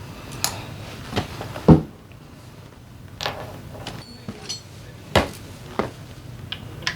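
Metal tools and engine parts knocking and clacking during a scooter engine teardown: a handful of separate sharp knocks, the loudest about two seconds in.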